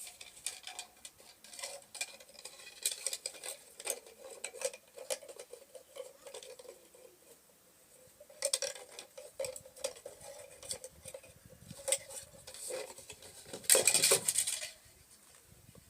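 Irregular clattering and light knocks of plumbing pipe and fittings being handled, with a louder scraping rustle shortly before the end.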